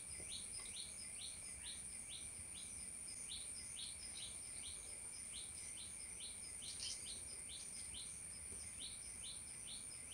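Faint, regular series of short high chirps, about two to three a second, from a small bird calling, over a thin steady high-pitched tone.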